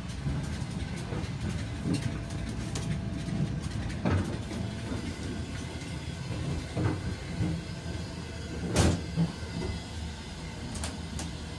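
Passenger train carriage heard from inside: a steady low rumble of the running train, with a few sharp knocks and rattles, the loudest about 9 s in.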